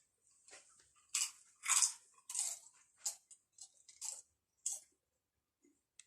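A person biting into and chewing a Pringles crisp, with about eight crisp crunches that die away near the end.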